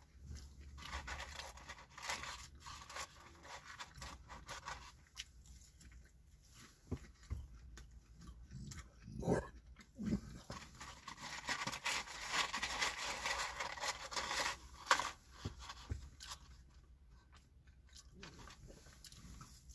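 Close-up chewing and crunching of McDonald's french fries in a man's mouth, tipped in from the cardboard fries carton, with irregular crackles and clicks.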